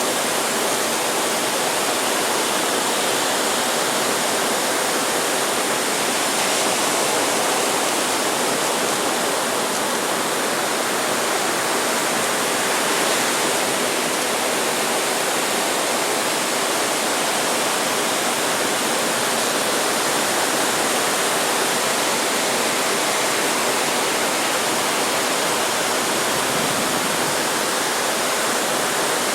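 Steady, even rush of breaking surf, with no single wave or break standing out.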